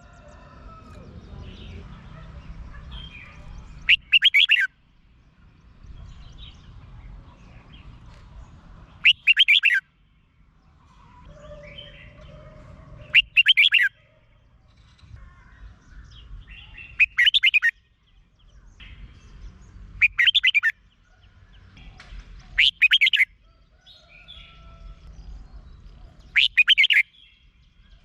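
Red-whiskered bulbul singing short, loud song phrases, seven of them, one every three to four seconds. Faint chatter and a low background rumble fill the gaps between phrases.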